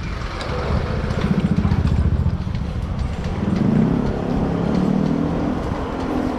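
Motor vehicle engine running close by in street traffic, a low rapid pulsing rumble, strongest in the first half. A wavering pitched note follows in the second half.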